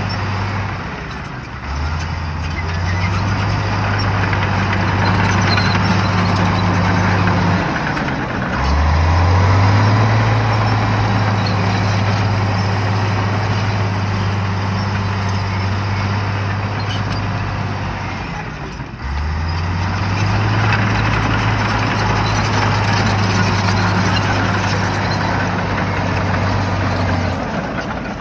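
Shantui bulldozer's diesel engine running under load, its note dropping and then climbing back up several times, about every ten seconds, over a constant noise.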